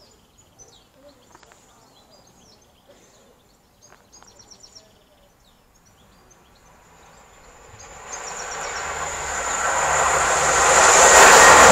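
Birds chirping faintly. From about seven seconds in, an East Midlands Railway Class 222 Meridian diesel train approaches at speed, its rumble and a high steady whine swelling to loud as it reaches the platform.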